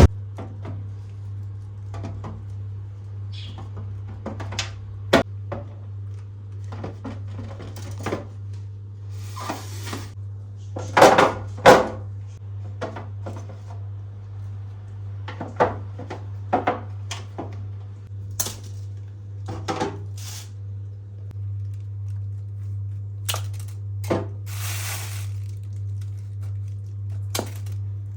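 Containers and dishes being set down and moved about while a fridge is organised: scattered clinks and knocks, the loudest two about eleven and twelve seconds in, with brief rustling now and then. A steady low hum runs underneath.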